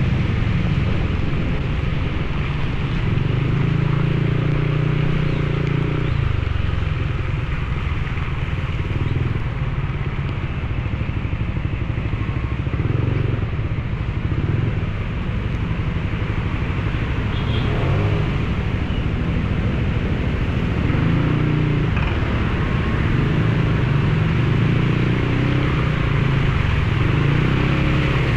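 Motorcycle engine running under way, its note rising and falling with the throttle, over a steady rush of wind and rain noise.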